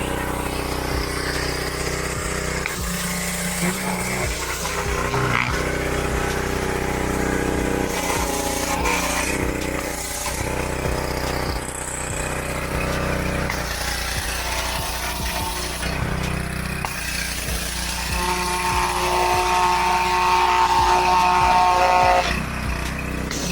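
Ryobi 2900 PSI gas pressure washer's small engine running steadily just after being pull-started. About three-quarters of the way through, a higher note joins it and then cuts off suddenly.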